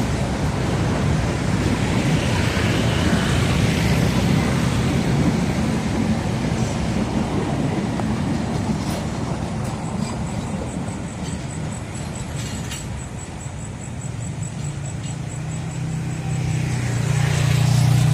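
Train rolling past on the track: a steady rumble of wheels on rails, swelling again near the end.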